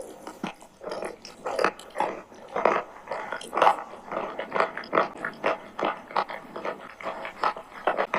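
A person chewing a mouthful of chalk with clay paste, about two chews a second.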